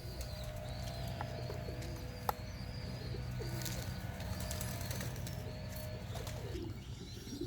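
Racing pigeons cooing around the loft, with higher bird chirps over a steady low rumble and one sharp click a little over two seconds in.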